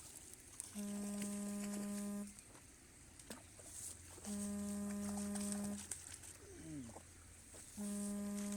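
A distant horn sounding three times at one steady pitch, each blast about a second and a half long and spaced about three and a half seconds apart. A faint low hum joins about halfway through.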